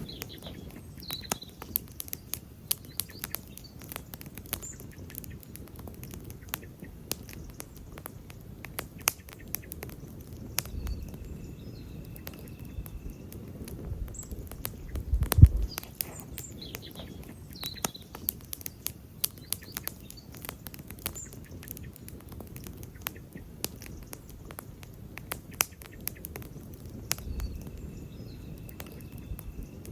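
Campfire crackling, with many irregular sharp pops over a low rumble of burning wood and one loud pop about halfway through. Faint bird chirps now and then.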